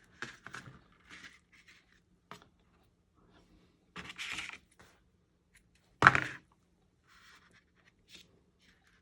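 Tabletop handling sounds while ribbon is attached to a card with glue dots: scattered small rustles and ticks, a short scraping, tearing sound about four seconds in, and a sharp thunk about six seconds in, the loudest, as something is set down on the table.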